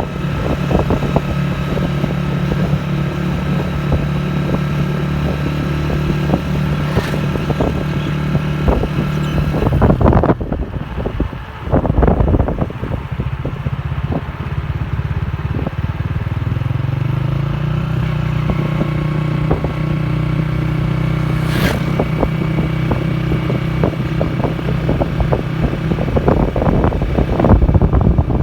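A motor vehicle's engine running steadily with many small rattles and knocks over it. Its note breaks off about ten seconds in, then comes back rising in pitch a few seconds later as it speeds up.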